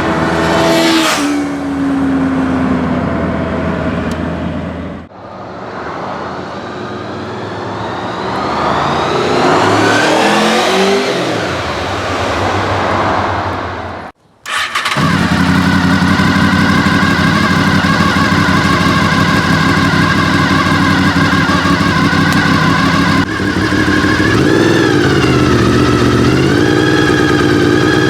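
Honda VFR800 RC46's V4 engine revving and idling through its exhaust. Revs rise and fall twice in the first half, with abrupt cuts between takes, then the engine settles into a steady idle with one short blip near the end.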